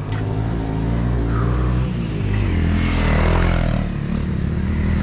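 Motorcycle engine running close by, revving, its pitch rising and falling with the throttle.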